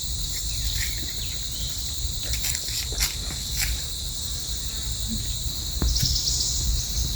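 Steady, high-pitched chorus of forest insects buzzing without a break, over a low rumble, with a few faint clicks.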